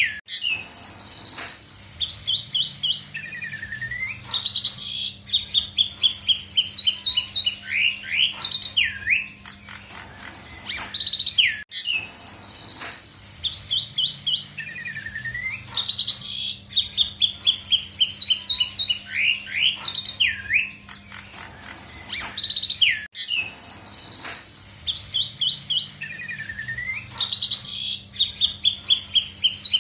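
Asian pied starling (jalak suren) singing a long, varied song of clear whistles, rapid trilled runs and sharp swooping notes. The same sequence of phrases repeats about every 11 to 12 seconds, as in a looped recording. A steady low hum runs underneath.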